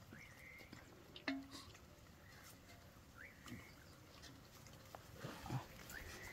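Faint, short bird chirps, four or five of them a second or so apart, over quiet outdoor air, with one sharp knock about a second in.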